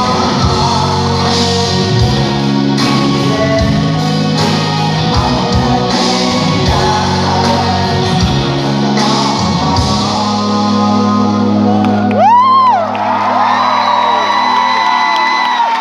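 Live rock band playing with sung vocals and drums. About ten seconds in the drums stop and a final chord is held ringing. Near the end a loud whoop rises from the audience as cheering starts.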